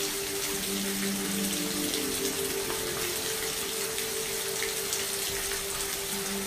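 Steady rain with scattered individual drops, over soft held notes of background music.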